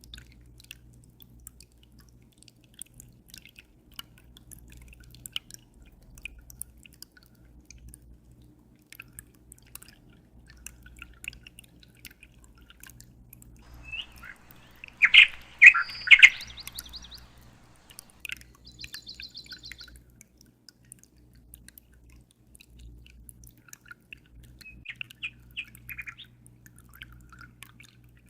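Small birds chirping with scattered short tweets, then a loud burst of calls about halfway through, followed by a quick high trill. A low steady hum runs underneath.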